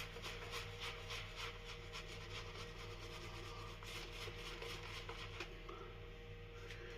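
Safety razor with a Gillette Nacet blade scraping through lathered stubble in short, quick strokes, a faint rasping, about three strokes a second, that thins out near the end.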